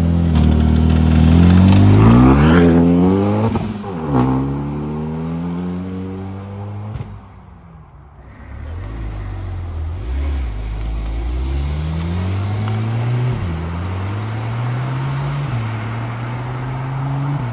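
A sports car accelerating hard away, its engine note climbing steeply with a gear change about three and a half seconds in, then fading. About eight seconds in a second car pulls away, its revs rising in steps as it shifts up through the gears.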